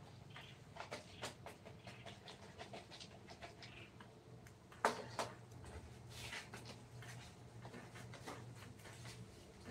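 Faint, irregular scratching and small taps, with two louder knocks close together about five seconds in, over a low steady hum.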